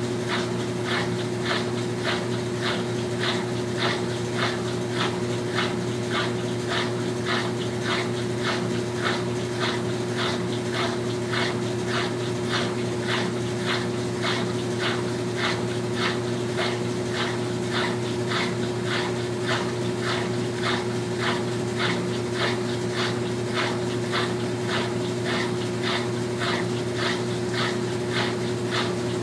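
Brastemp top-load washing machine running: a steady motor hum with even, rhythmic swishing about twice a second.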